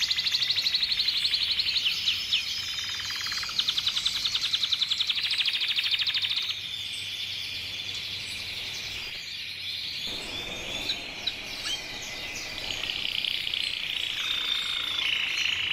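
Red canary singing: fast rolling trills for the first six seconds or so, then softer, varied warbling with short chirps, and another trill near the end.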